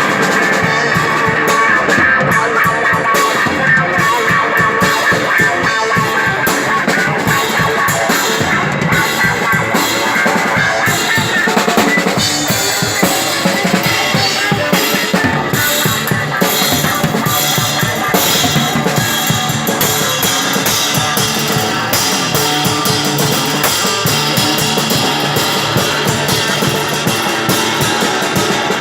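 Live psychedelic rock instrumental passage: a drum kit played busily, with bass drum, snare and rimshots, over sustained electric guitar.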